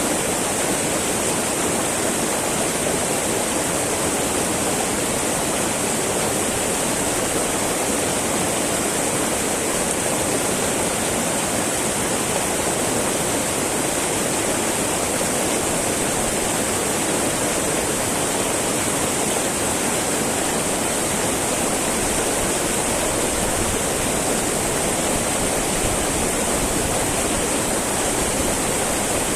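Small mountain river babbling, a steady, unbroken rush of flowing water.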